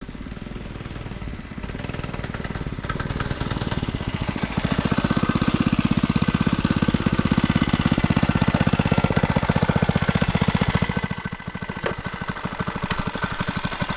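Small single-cylinder 100cc Lifan petrol engine of a kids' motorcycle running with a rapid, even putter. It revs up about four seconds in, holds higher, then drops back toward idle near eleven seconds.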